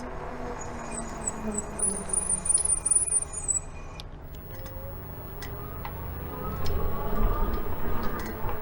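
Wind and road noise from riding a fat-tire electric bike, with a high wavering tone a couple of seconds in and the rumble of a passing motor vehicle swelling near the end.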